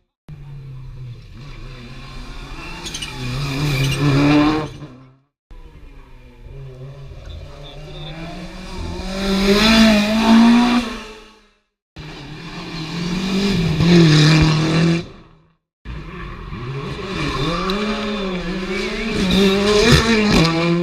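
Rally cars at full throttle on a special stage, heard as four separate passes that each end in an abrupt cut. In each pass the engine note climbs and drops with gear changes and grows louder as the car nears.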